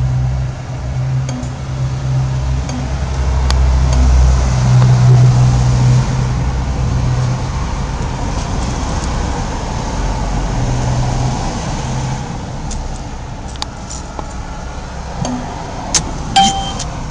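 A vehicle's engine running close by, its low rumble loudest about five seconds in and then easing off. A short electronic beep from the ATM sounds near the end.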